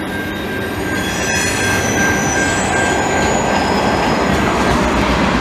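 Freight train cars rolling through a level crossing: a steady rumble of wheels on rail with a high-pitched wheel squeal that fades about four and a half seconds in. Two sharp clicks come in the first second and a half.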